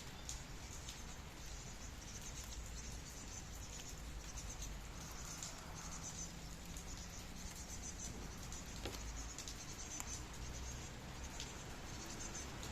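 Steady light rain pattering, with scattered sharp drip ticks.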